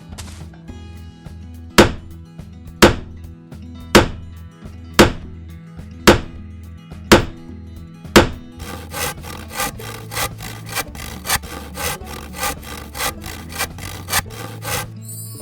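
Seven loud, sharp knocks about a second apart, then a quicker run of lighter, ringing knocks about twice a second, over soft background music.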